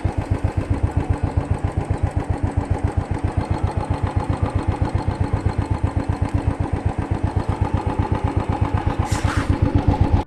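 Royal Enfield Thunderbird 350X single-cylinder engine idling, a steady even thump of about eight or nine beats a second. There is a brief hiss shortly before the end.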